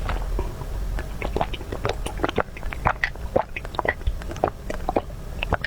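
Close-miked eating sounds: a person chewing food with irregular wet smacks and clicks of the mouth, several a second.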